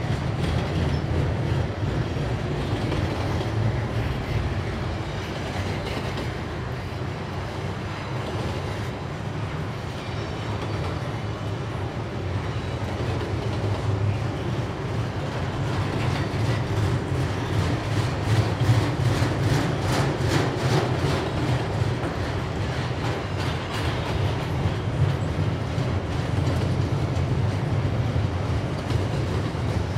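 Train rolling past with a steady low rumble of wheels on rail. A run of rhythmic clickety-clack from the wheels over rail joints builds in the second half.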